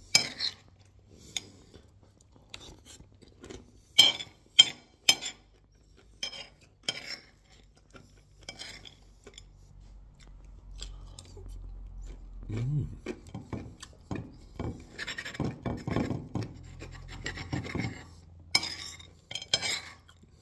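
Close, crackly eating noises from a man chewing pancake: sharp clicks and mouth noises, getting louder and busier in the second half.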